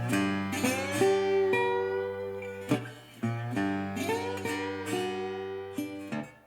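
Background music on acoustic guitar: plucked notes and chords that ring and decay, with some notes sliding up in pitch.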